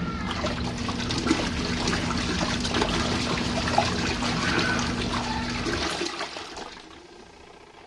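RV washing machine running its rinse: a steady motor hum with water churning in the tub. It cuts off about six seconds in, in the stop-start rhythm of a washer's rinse.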